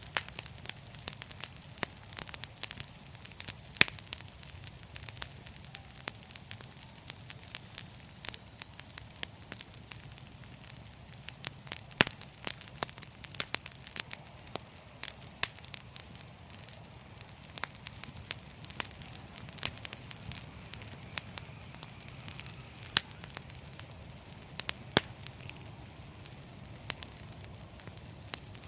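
Wood fire crackling steadily: frequent irregular sharp pops and snaps over a low, even rumble of burning.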